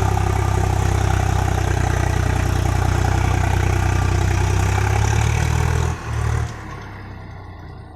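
Tractor engine running steadily, then stopping about six seconds in.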